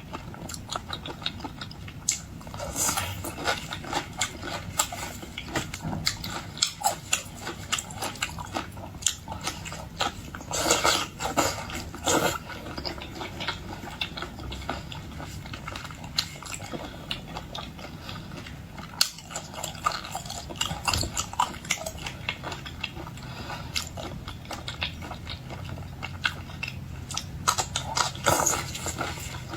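Close-miked eating of boiled seafood: a mouth chewing, biting and smacking, with many short sharp clicks and crunches, denser in several clusters.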